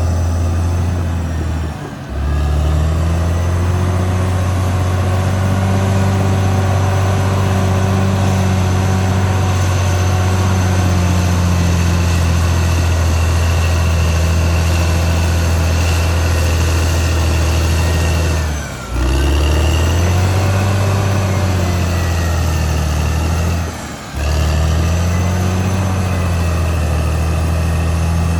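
Caterpillar D6R XL bulldozer's diesel engine working under load, its pitch rising and falling. It drops away briefly about two seconds in and twice more near the end, then picks up again.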